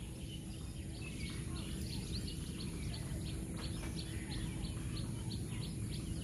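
A bird chirping repeatedly in short, high notes, a few a second, more regular from about a second and a half in, over steady low outdoor noise.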